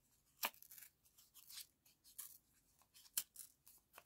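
Paper being torn by hand in a series of short rips, the sharpest about half a second in and again near three seconds in.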